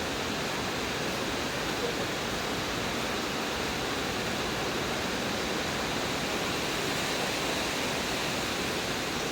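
Heavy rain falling steadily, an even noise with no breaks.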